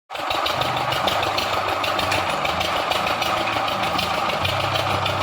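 Engine of a heavy machine running steadily, with a fast, even rattle.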